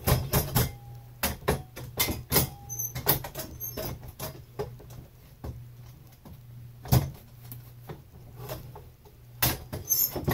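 The bars of a homemade scissor-lift kayak seat base clanking and rattling as the seat is raised through its height settings, with many sharp clicks and knocks, loudest about a second in and near seven seconds. The noise comes from the prototype frame only while it is being adjusted.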